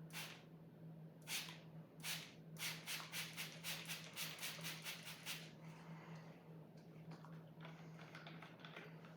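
Sword blade being sharpened: a series of short scraping strokes, a few spaced out at first, then quicker at about three or four a second, then softer scraping near the end. A steady low hum runs underneath.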